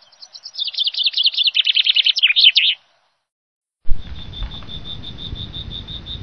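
A bird trilling in a rapid run of high chirps for about two and a half seconds. After about a second of silence comes a thump, then a low rumble with a fast, even high-pitched pulsing over it.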